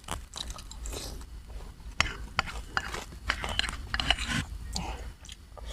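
A person chewing and crunching a mouthful of spicy seafood papaya salad, with irregular sharp crunches and clicks.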